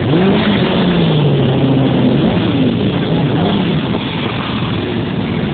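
Motorcycle engines running: one engine is revved, its pitch rising and falling several times over the first few seconds, over a steady din of other engines.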